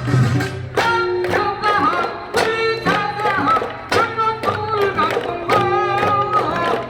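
Korean folk song sung with wavering vibrato over steady drum strokes keeping the beat.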